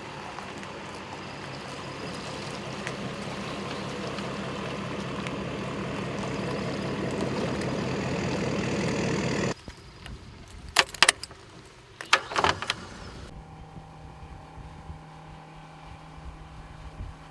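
A motor engine running steadily, slowly growing louder, cut off suddenly about ten seconds in. A few sharp knocks follow, then a quieter, steady engine hum with a low even pitch.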